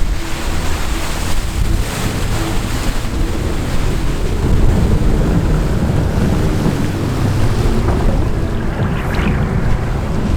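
A 4WD's engine running steadily under load as it drives through a deep river crossing, with water rushing and splashing around the vehicle.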